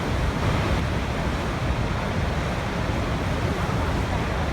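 Waterfall, water pouring and splashing in a steady, unbroken rush.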